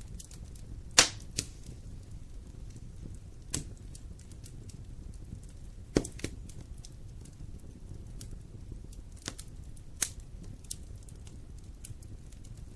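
Fire in a fireplace crackling: a steady low rumble of flames with sharp pops every one to three seconds, the loudest about a second in.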